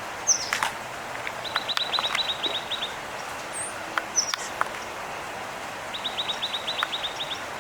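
A small songbird sings a quick, even trill of about ten high notes, twice, about four seconds apart. A few short, sharp chirps are scattered between the trills.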